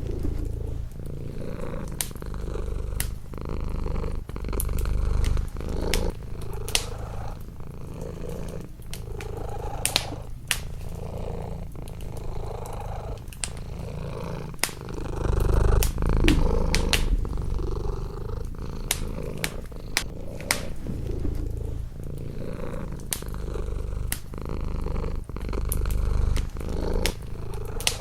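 A domestic cat purring close up in slow, swelling cycles. Over it a wood fire in a fireplace crackles with scattered sharp pops.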